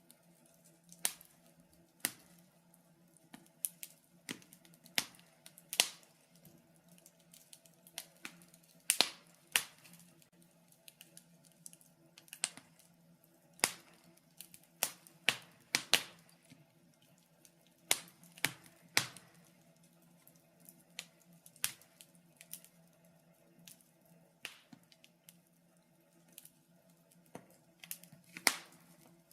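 Wood fire crackling in a fireplace: irregular sharp pops and snaps, about one or two a second, some much louder than others, over a faint steady hum.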